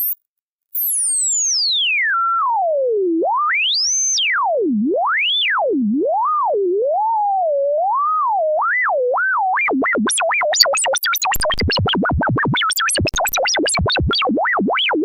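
A single pure electronic tone gliding up and down in pitch, like a theremin or a synthesizer sine sweep. It climbs out of hearing and cuts out for a moment near the start, then falls and swings in slow wide sweeps. About two-thirds in it wobbles faster and faster, with deep plunges to low pitch.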